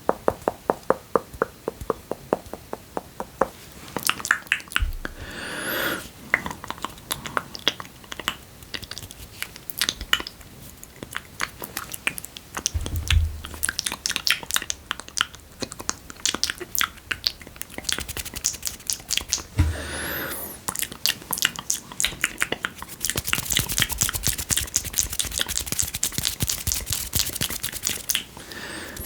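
Close-up wet ASMR mouth sounds: quick trains of tongue and lip clicks and spit smacks, with a denser hissing crackle near the end and a few soft low bumps.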